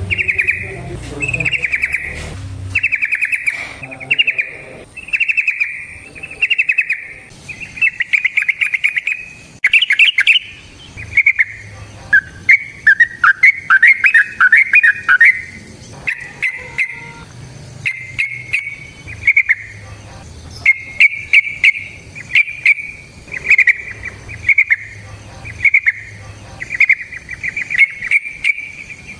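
Yellow-vented bulbul (trucukan) singing a long string of short, bubbly phrases, about one a second, with a longer tumbling run of notes about halfway through.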